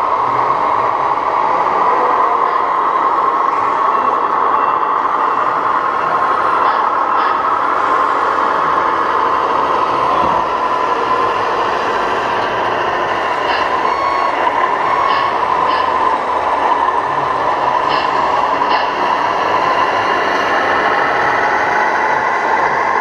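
Radio-controlled 1:14 scale model trucks running, a steady mechanical drone, with a few short high-pitched sounds scattered through the middle and later part.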